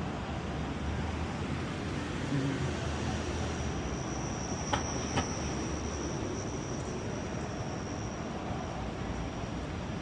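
Train wheels squealing on the rails: one long high squeal lasting about five seconds, with two sharp clicks near its start, over a steady rumble of city traffic.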